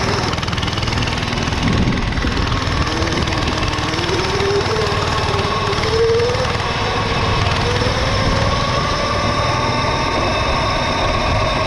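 Mini bike pulling away at the start of a race, its drive note rising in pitch over the first few seconds as it gains speed and then holding steady, over a constant rush of wind and trail noise.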